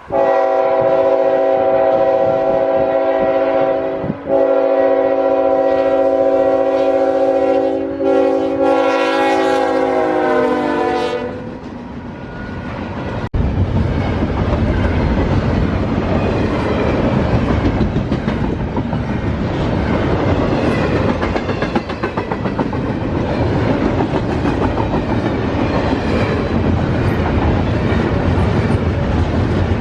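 CSX GE locomotive's multi-chime air horn sounding long blasts, the last sliding down in pitch as the locomotive passes. About 13 seconds in, the train arrives with a sudden loud rush, and the double-stack intermodal cars roll by with steady rumbling wheel noise and repeated clacking.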